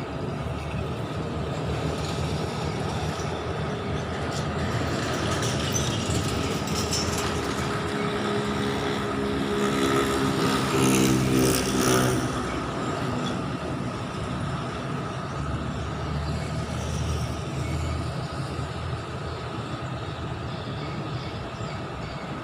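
Steady outdoor traffic rumble, with a motor vehicle passing close by: its engine grows louder, is loudest about eleven seconds in, then fades away.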